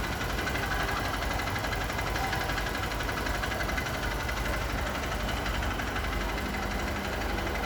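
An engine idling steadily, an even running drone that holds level without revving or stopping.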